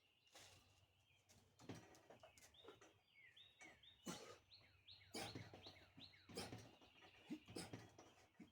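Faint bird song: a run of quick, repeated chirps, about three a second, starting a couple of seconds in. Scattered brief soft noises are heard around them.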